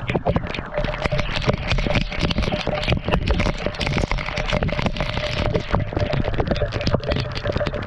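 Waterfall water splashing and pattering right at the microphone: a loud, dense, irregular run of splats and crackles over the rushing of the falling water, overpowering the mic.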